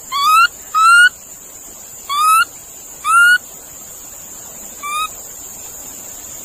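Monkey calling: five short, high, rising calls, the last one shorter and fainter.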